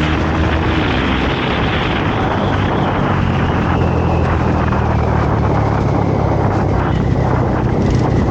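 Motorcycle engine running steadily while under way, its low hum dipping slightly in pitch about a second in, under a constant rush of wind on the microphone.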